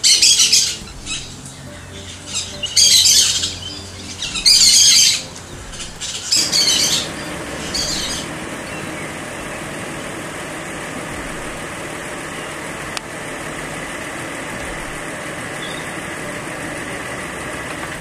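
Birds calling: about five loud, harsh, high-pitched calls, each under a second long, over the first eight seconds. A steady rushing noise sets in about six seconds in and carries on after the calls stop.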